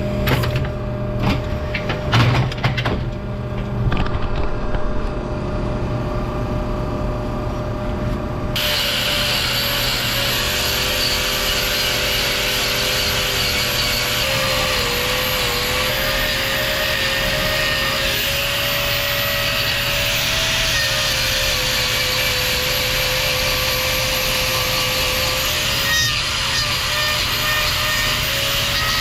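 Short scrapes and knocks for several seconds, then from about eight seconds in an electric angle grinder runs steadily, trimming a cow's hoof, its pitch dipping briefly about halfway through as it bites into the horn.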